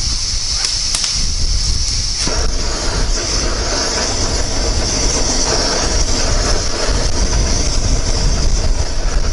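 Canister backpacking stove (MSR Pocket Rocket) burning under a frying pan, with butter sizzling in the pan. About two seconds in, the sizzle grows louder and fuller.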